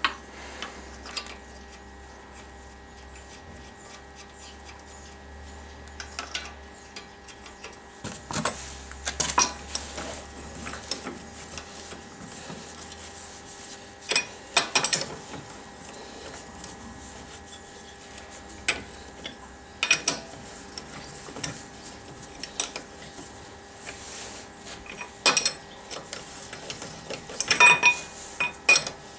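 Metal hand tools and parts clinking and knocking in scattered clusters during car repair work, over a steady background hum.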